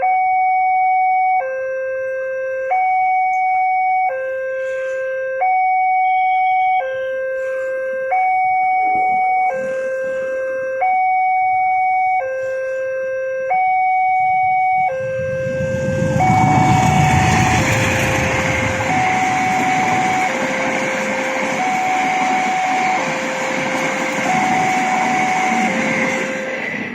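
Railway level-crossing warning alarm sounding two tones in turn, high then low, each held about 1.4 seconds. About fifteen seconds in, a passing train's rumble and wheel-on-rail noise swell up under the alarm and last almost to the end, then fade.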